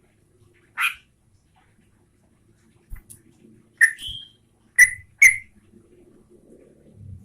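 Sooty-headed bulbul giving a few short, sharp call notes spaced irregularly, with a brief whistled note after the second one.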